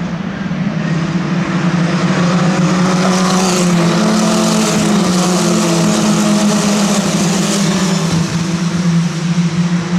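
Racing cars' engines running hard as they pass a circuit, the sound building over the first couple of seconds and then staying loud.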